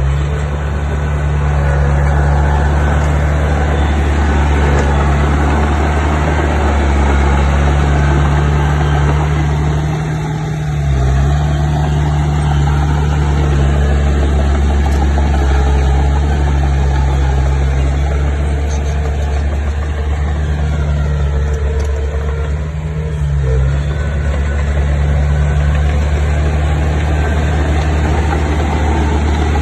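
Heavy diesel engine of a bulldozer running steadily, its note dipping briefly twice as the load changes.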